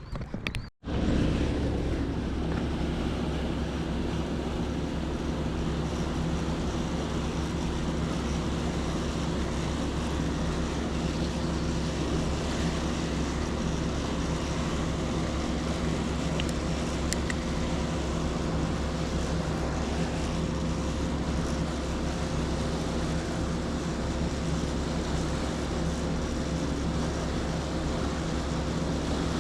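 A steady mechanical drone: a constant low hum with several fixed tones over an even rushing noise, cutting in abruptly about a second in and holding unchanged in pitch.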